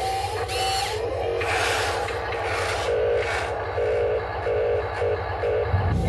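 Heavy machinery running with a steady low engine drone, over which metal rubs and squeals in short repeated pulses, several in the second half.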